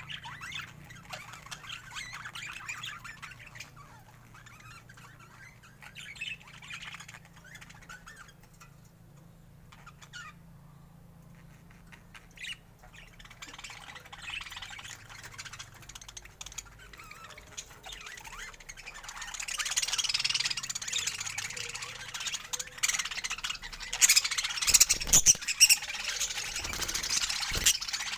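Budgerigars chattering and chirping, with a short lull about ten seconds in, then louder, busier chatter with sharp squawks from about twenty seconds in.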